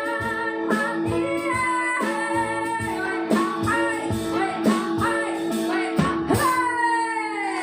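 Live female voice singing a song over a strummed guitar in a steady rhythm, ending on a long held note that slides down in pitch near the end.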